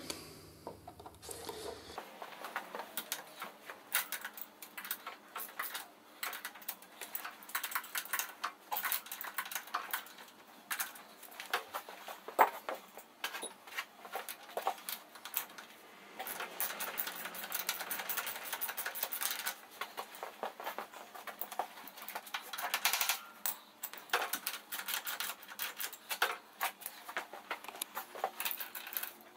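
Sped-up workshop sounds: a dense run of quick clicks, ticks and clatters from hand tools and motorcycle parts being handled as the front mudguard and wheel are stripped off, busiest about halfway through.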